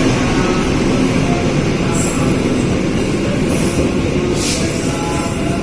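Train running through a station at close range: a steady low rumble of wheels on the rails, with a few faint short wheel squeals.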